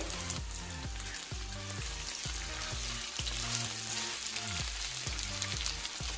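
Boiled potato chunks sizzling as they fry in oil in a wok, with background music underneath.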